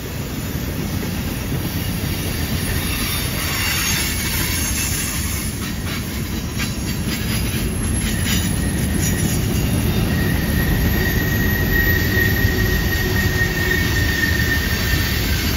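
Freight cars (tank cars and covered hoppers) rolling past on a curve: a steady low rumble of steel wheels on rail, with a series of clicks around the middle. From about ten seconds in, a thin, steady high-pitched squeal of wheel flanges grinding against the curved rail rides over the rumble.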